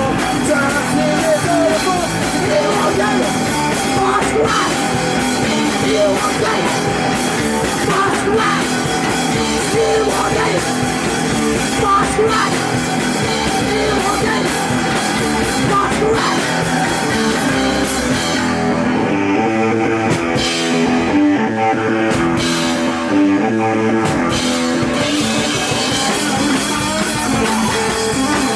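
Live punk rock band playing loudly: guitar, drum kit and singing. Past the middle, the bright top end drops out for several seconds while a lower rhythmic riff carries on, then comes back.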